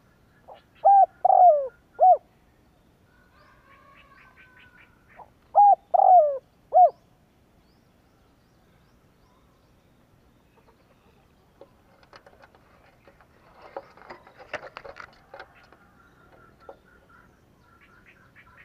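Spotted dove cooing: two phrases of its four-note call, the third note long and falling. Small birds chirp faintly between the phrases, and a flurry of rustling and clicking comes about two-thirds of the way through.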